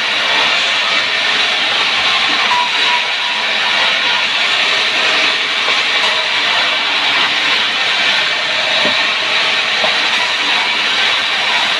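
A power saw cutting through wood, giving a steady, even rushing noise that holds without pause.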